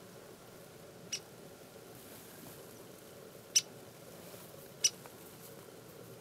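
Ladder-backed woodpecker giving sharp, short single 'pik' call notes, four of them spaced irregularly a second or more apart, the first one softer.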